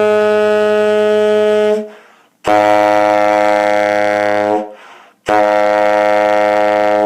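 Tenor saxophone playing three sustained low long tones, each about two seconds with a short break between, with the octave key held down while the notes are lipped down an octave. This is an exercise for opening the throat and controlling the tone.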